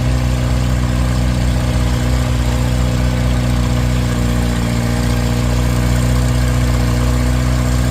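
Antique pulling tractor's engine running at a steady, unchanging pitch, loud and continuous, as it works under load down the pull track.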